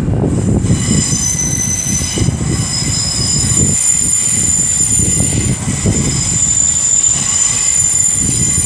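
Great Western Railway Class 800 train running into the station with a steady low rumble. From about a second in, a high-pitched squeal joins it and holds, as the train slows to arrive.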